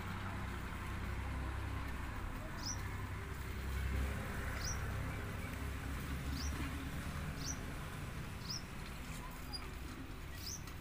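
A bird repeating a short, high chirp that slides down in pitch, about every one to two seconds, over a low steady rumble.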